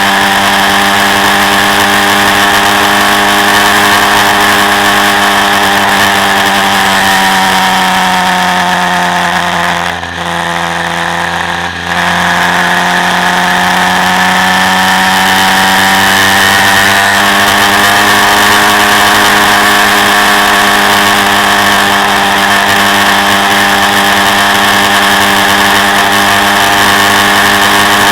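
Quad bike engine running at steady revs, heard from on board. About ten seconds in, the revs fall and the sound drops briefly as the throttle is eased. About two seconds later it picks up sharply and the revs climb back to a steady pitch.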